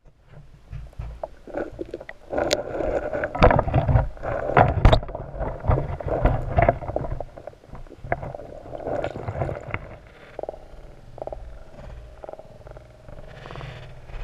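Creek water gurgling and splashing close to the microphone, with irregular knocks over a low rumble; busiest in the first half, calmer after about ten seconds.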